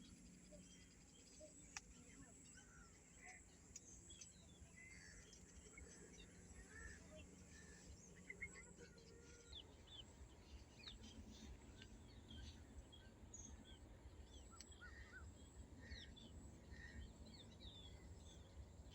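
Faint, scattered chirps and short call notes from several small birds, over a steady low rumble.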